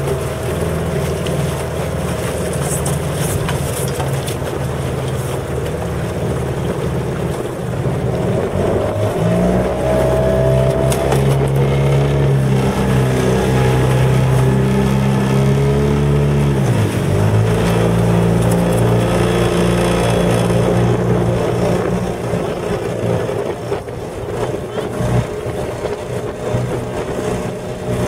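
Motorboat engine running steadily; its pitch rises about a third of the way in, drops sharply a little past halfway, then holds steady again.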